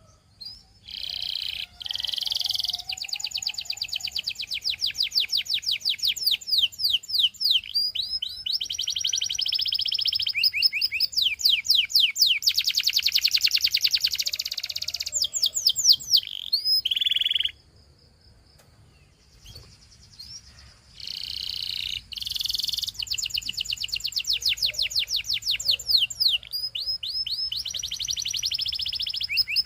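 Domestic canary singing long, fast trills of rapidly repeated high notes, the song changing from one trill to the next. It breaks off for about three seconds a little past halfway, then starts again.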